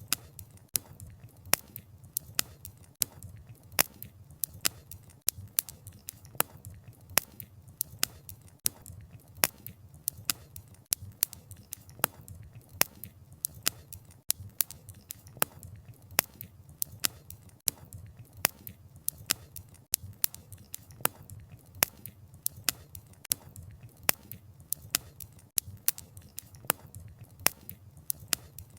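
Campfire crackling: burning firewood gives irregular sharp pops, about two or three a second, over a low steady rumble of the flames.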